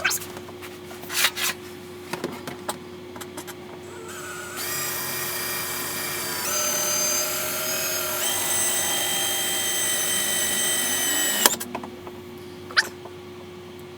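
Electric drill running for about seven seconds, its motor whine stepping up in pitch twice as the trigger is squeezed harder, then stopping abruptly, followed a second later by a single click. It is drilling a hole for the trailer wiring's ground connection.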